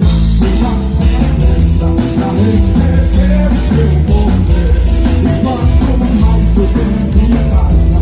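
Live band music in a rock style, with drums, bass, guitar and a singing voice.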